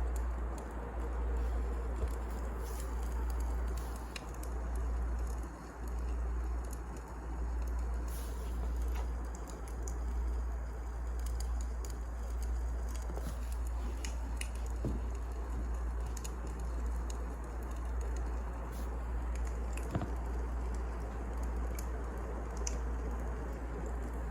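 Wood fire burning, with irregular crackles and sharp pops over a steady low rumble; a louder pop comes about 20 seconds in.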